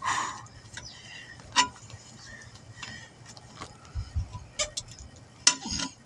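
Scattered metallic clicks and clinks of tire-changing tools on a wheel rim as a stiff, heavy tire is forced off the rim, with a low thump about four seconds in.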